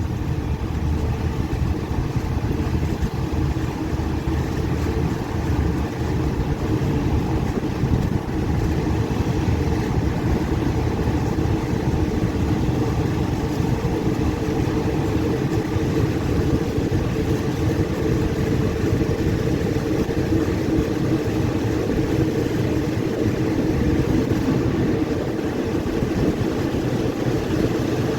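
Passenger train running along the track, heard from on board: a steady low running noise of the train in motion.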